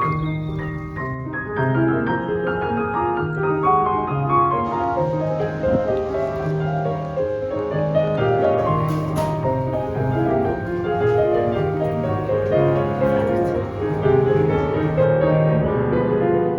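Solo piano music: a flowing run of notes over a low note that comes back about once a second.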